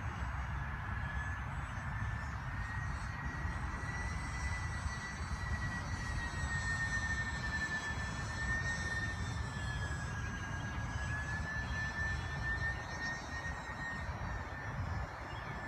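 Twin-engine radio-controlled Aero Commander model plane in flight, its motors giving a steady high whine that drifts slowly up and down in pitch as it flies around.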